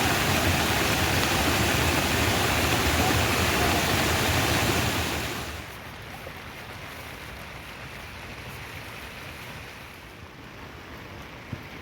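Rain: a loud, steady rushing hiss that drops sharply about five and a half seconds in to a softer patter with scattered faint drip clicks.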